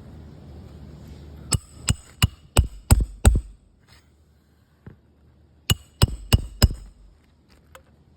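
Hammer striking a roof snake (shingle ripper) to cut the nails under a shingle. Six sharp blows come in quick succession about a second and a half in, and after a short pause there are four more, each with a slight metallic ring.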